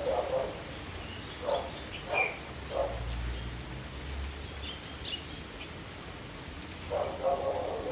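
Short animal calls outdoors: several brief lower calls spaced a second or so apart, a longer one near the end, and a few higher bird chirps in between.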